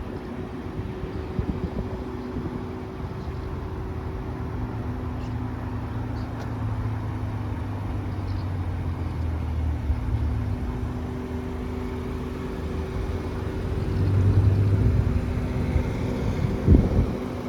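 Volkswagen Golf R's turbocharged four-cylinder engine running steadily through an Akrapovic exhaust, with a low steady hum. It gets a little louder about fourteen seconds in, and there is a single thump near the end.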